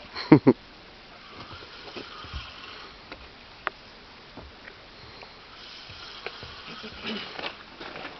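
Feeding carp slurping at the pond surface, consistent with hungry fish: two short loud slurps about half a second in, then faint scattered sucking and smacking sounds.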